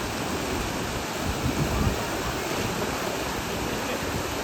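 Waterfall pouring and splashing into a creek pool, a steady rushing hiss.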